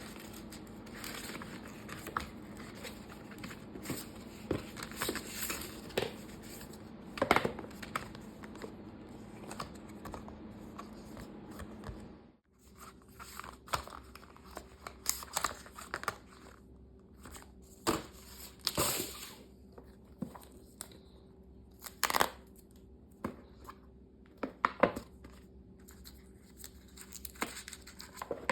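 Unboxing an Apple Watch SE: packaging being handled, with paper tearing, crinkling wrap and scattered clicks and taps of box parts. There is a brief break about twelve seconds in.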